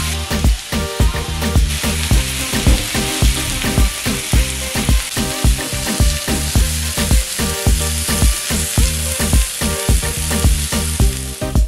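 Chicken pieces sizzling on a hot grill pan, a steady frying hiss, with background music with a steady beat underneath.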